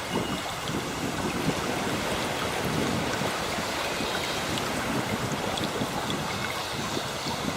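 Ocean waves washing on the shore in a steady, surging wash of surf, with a few faint high bird chirps over it.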